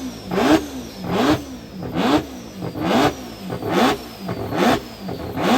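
Mazda rotary engine revved in a run of about seven quick throttle blips, a little over one a second, each rising and then falling in pitch.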